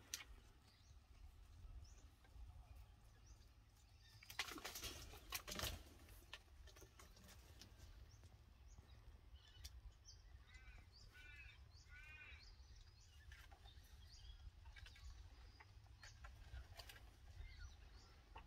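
Faint outdoor quiet with scattered bird chirps, including a run of about five rising-and-falling calls near the middle. A brief burst of rustling noise, the loudest thing here, comes about four seconds in.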